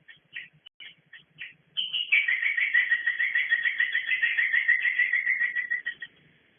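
Edible-nest swiftlets twittering: scattered short chirps, then from about two seconds in a long, fast, unbroken trill that stops suddenly near the end.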